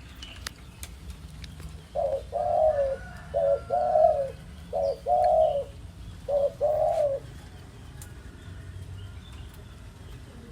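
A dove cooing: four phrases in a row, each a short note followed by a longer one.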